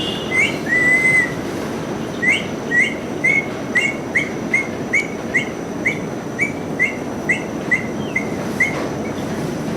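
A parrot calling: one drawn-out whistle about a second in, then a run of short, evenly spaced chirps, two or three a second.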